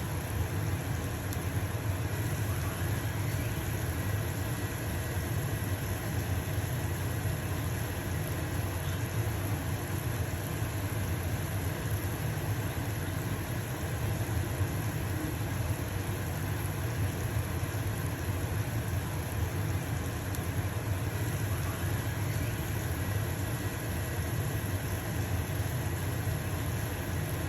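Stove-top fan running steadily with a low hum, over the steady sizzle of a pancake frying in a pan.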